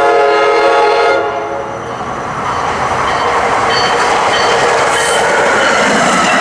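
NJ Transit push-pull commuter train, a Multilevel cab car leading, sounds one long horn blast about a second and a half long as it approaches. Then the train runs past with the rising noise of its wheels and cars on the rails.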